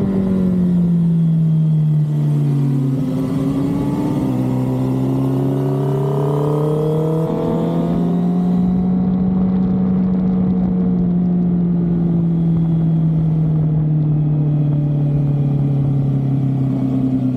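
Sport motorcycle engine heard from onboard, its note falling as the bike slows and then rising again under throttle, with one gear change about seven seconds in, after which it runs on steadily at moderate speed. Wind rushes over the microphone in the first half and fades as the speed drops.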